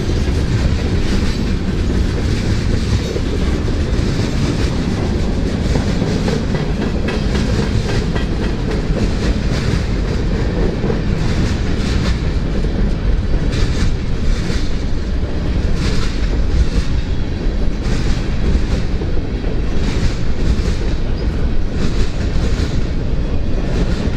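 Freight train cars rolling past: a steady low rumble, with sharp wheel clicks about once a second in the second half.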